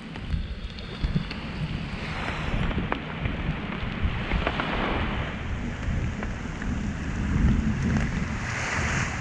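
Heavy rainstorm: rain pouring down while strong wind gusts buffet the microphone with a deep rumble, the rush swelling twice, with scattered drops tapping close by.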